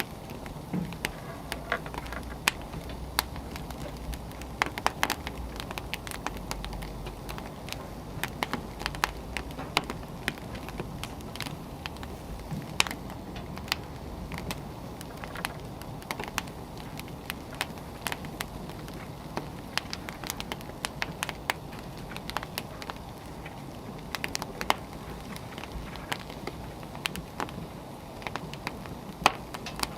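Wood fire burning, a steady low hiss with frequent sharp, irregular crackles and pops from the burning logs.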